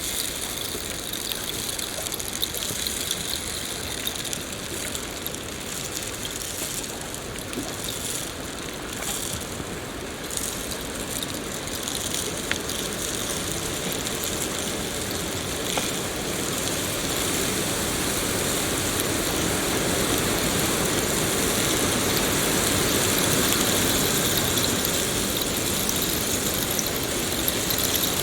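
Steady rain falling, an even hiss with a few faint drop ticks, growing slightly louder about halfway through.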